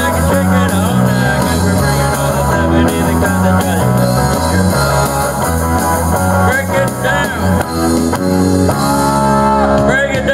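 Live band playing an upbeat funk number, with a bass line stepping between notes under electric guitar and sustained, sliding higher notes.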